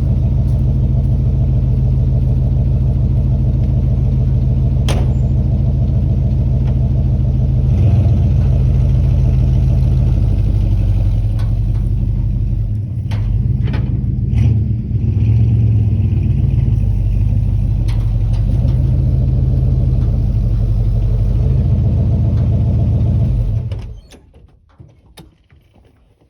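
1968 Chevrolet K20 pickup truck's engine running, with its note dipping and wavering briefly about halfway through, then shut off about 24 seconds in.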